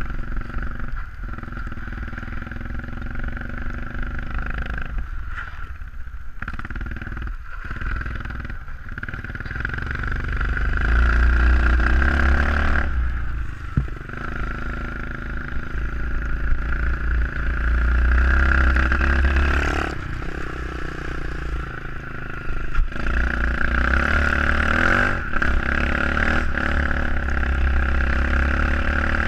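SSR 125cc pit bike's single-cylinder four-stroke engine running while being ridden, the throttle opening and closing. It is quieter with brief drop-offs in the first several seconds, then pulls louder about ten seconds in, again near twenty seconds, and through the last several seconds.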